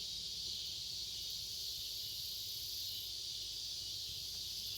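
Night insects chirring in a steady, unbroken chorus, high-pitched, with a faint low rumble underneath.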